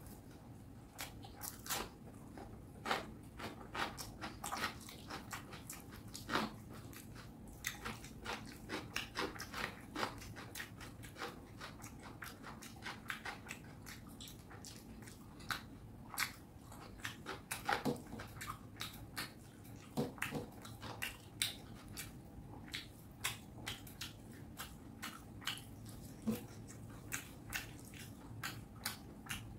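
A person chewing mouthfuls of fish curry and rice close to the microphone: a string of short, irregular mouth clicks and smacks, several a second.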